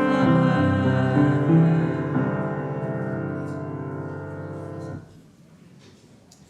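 Piano music closing on a held chord that slowly fades and is cut off about five seconds in, leaving quiet room tone.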